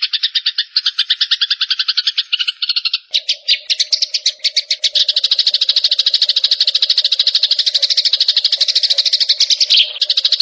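Mixed songbird masteran recording: small birds chattering in fast, continuous rattling trills of roughly ten notes a second. About three seconds in the chatter changes pattern and a low steady hum joins underneath.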